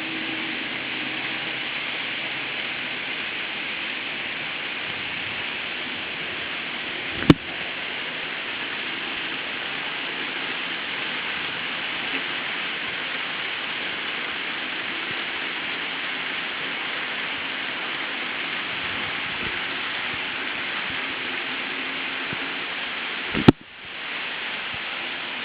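N-gauge model trains running on track: a steady rushing whir of wheels and motors, broken by a sharp click about seven seconds in and another near the end.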